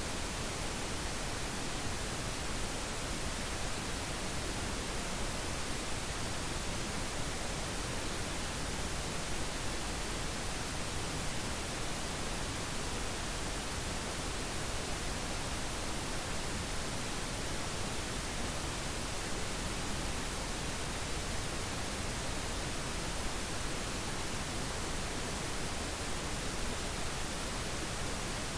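Steady pink noise: an even, unchanging hiss spread across all pitches, a little heavier in the lows than white noise.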